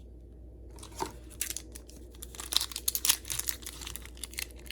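Foil booster pack wrapper crinkling and tearing in the hands, a dense run of irregular crackles starting about a second in.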